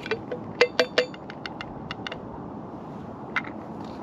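Sharp clinks and taps of hard cups or containers being handled. There is a quick run of clicks in the first two seconds, three of them loud and briefly ringing, then a single tap near the end.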